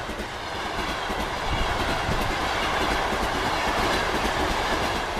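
A train running on rails: a steady rushing noise of the moving wagons, with wheel clacks over the rail joints.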